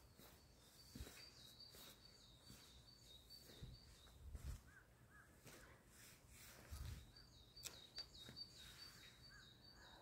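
Faint birdsong: a high, rapid string of repeated chirping notes that goes on for about four seconds, pauses, and starts again for the last few seconds, with a few softer lower notes in between. A few low thumps of phone handling or footsteps sound underneath.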